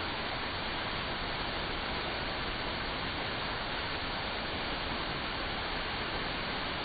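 Artificial waterfall: a steady, unbroken rush of falling water.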